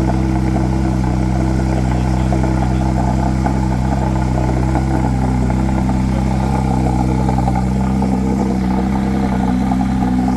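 A car engine idling at a steady, unchanging pitch, with no revving.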